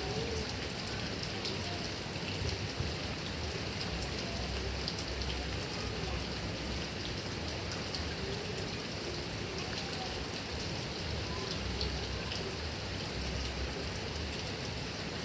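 Heavy rain falling steadily on grass and coconut palm leaves, with the ticks of separate drops scattered through the steady hiss.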